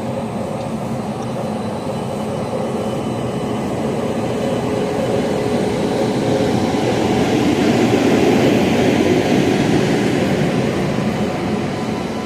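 Train running along the platform: a steady rumble of wheels on rails that swells, loudest about eight seconds in, then eases.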